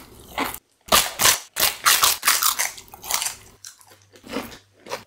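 Crisp crunching and chewing of a giant spicy snack being bitten and eaten: a quick run of loud crunches for the first few seconds, then a few softer chews.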